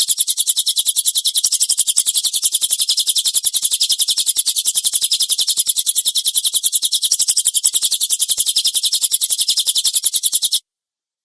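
A bird training recording of a harsh rapid-fire 'tembakan' call: a fast, even stream of sharp high chirps, repeated without a break for about eleven seconds, then cutting off suddenly.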